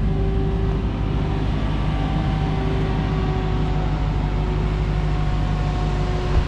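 Dodge Hellcat Redeye's supercharged 6.2-litre V8 running steadily at low engine speed, with no revving; one short knock near the end.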